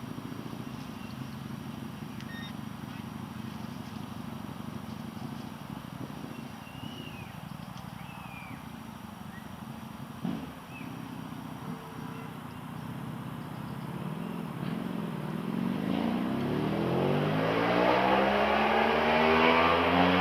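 Road traffic: a steady low rumble of passing vehicles. Over the last few seconds one vehicle approaches and grows loud, its engine pitch sweeping as it goes by.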